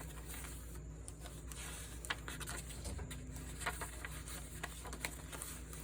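Faint paper handling: pages and cards of a handmade junk journal being turned and shifted, with a few soft rustles and taps over a low steady hum.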